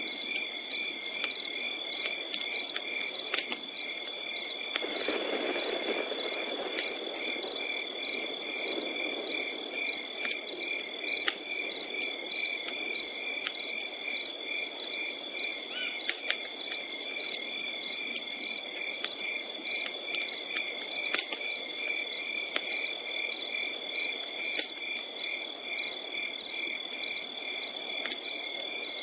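Crickets chirping in a steady pulsing chorus over a continuous high insect trill, with sharp campfire crackles scattered throughout. A soft rushing swell comes about five seconds in.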